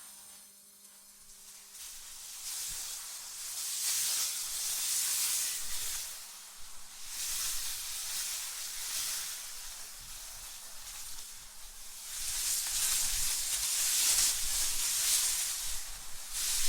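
Wind blowing in gusts: a high hiss that swells and fades every few seconds, with a low rumble under the stronger gusts.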